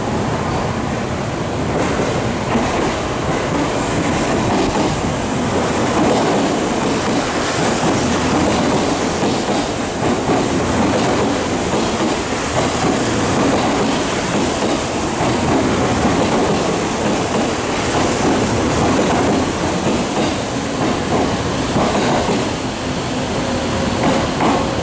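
Electric commuter train running past a station platform: a steady, loud rumble of steel wheels on the rails.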